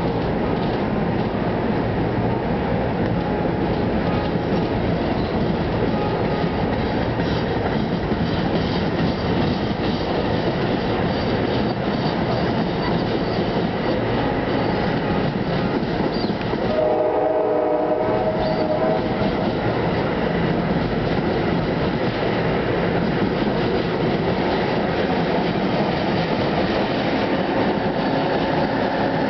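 NJ Transit multilevel bilevel commuter coaches rolling past as the train departs, a steady rumble of wheels on rail. Just over halfway through, a train horn blows for about two seconds.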